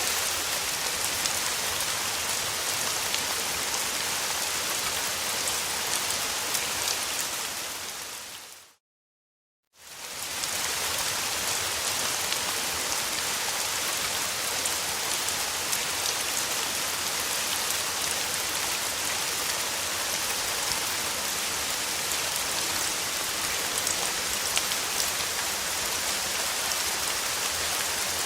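Steady rainfall. About eight seconds in it fades out to a second of silence, then fades back in, the join between two loops of the recording.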